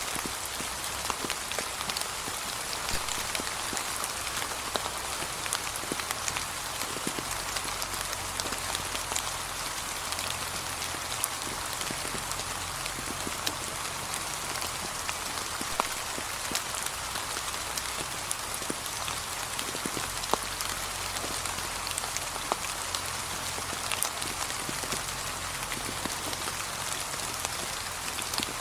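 Gentle rain falling steadily on a path strewn with fallen autumn leaves: an even hiss with many separate drops ticking sharply through it.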